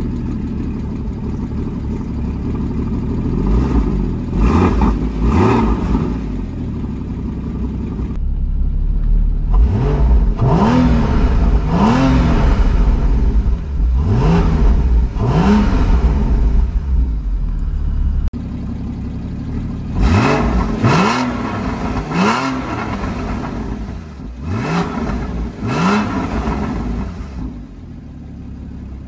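Porsche 981 Boxster Spyder's 3.8-litre flat-six idling, blipped again and again on the throttle, each rev flaring up and falling straight back. It is heard from behind the exhaust tailpipes and, in the middle, from the driver's seat. It settles to a quieter idle near the end.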